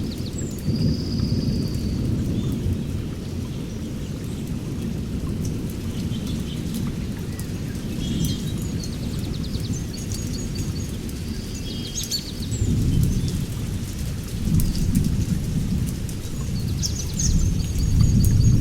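Thunderstorm: rain falling with a continuous low rumble of rolling thunder, which swells several times in the second half and is loudest near the end.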